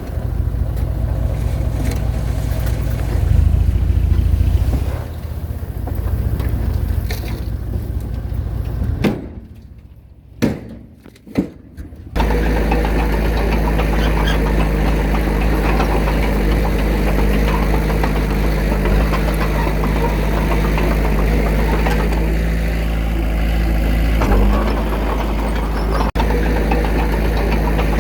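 Diesel engine of earth-moving machinery running. After about nine seconds it drops away to a quiet stretch with a few clicks, then a steady idle comes back abruptly and holds.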